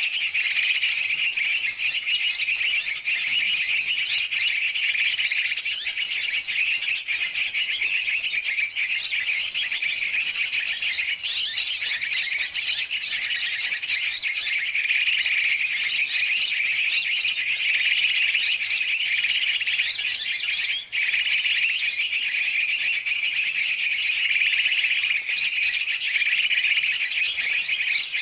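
Bird-lure recording of many birds, large and small, calling at once: a dense, continuous, high-pitched chatter of rapid repeated notes with no pauses.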